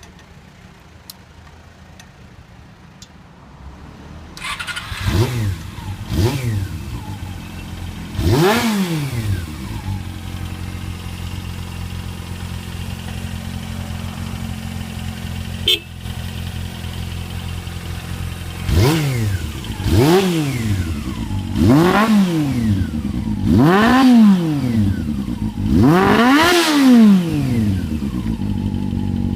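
Honda CB400SF's inline-four engine, breathing through an aftermarket Combat muffler, starting about four seconds in after a few faint clicks, blipped a few times and settling into a steady idle. It is then revved in a run of about five short throttle blips, each rising and falling in pitch, before returning to idle.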